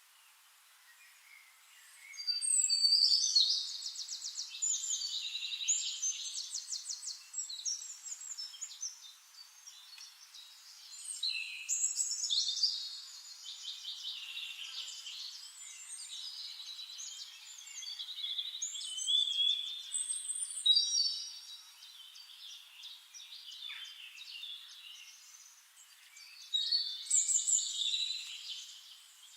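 A songbird singing long, varied phrases of rapid high trills and warbles, in four bouts separated by short pauses.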